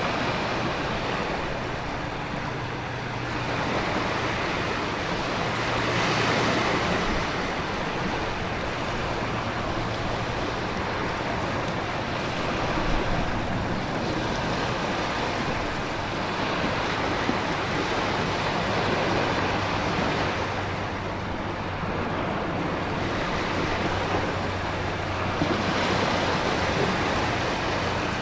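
Storm ambience: heavy rain and wind with ocean waves surging, the whole noise swelling and easing every several seconds, over a faint low hum.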